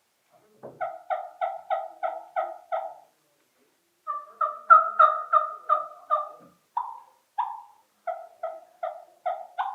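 Three-reed combo-cut latex diaphragm turkey mouth call imitating hen talk: three runs of yelps at about three notes a second. The middle run is louder and higher-pitched, and two separate single notes come between it and the last run.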